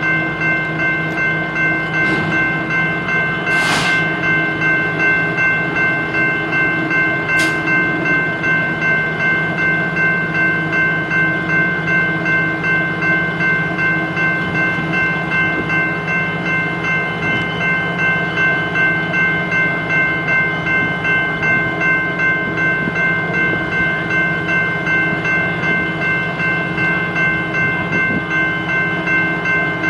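Train sound: a train running steadily, with a set of steady tones whose loudness pulses evenly about twice a second. Two brief hissy bursts come around 4 and 7 seconds in.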